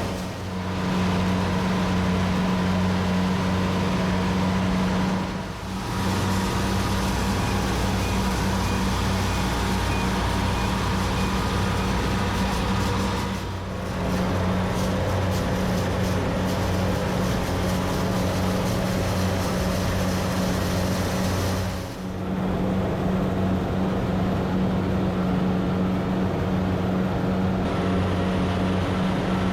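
Rice combine harvester's engine running steadily under load, a deep continuous drone. The sound drops out briefly four times.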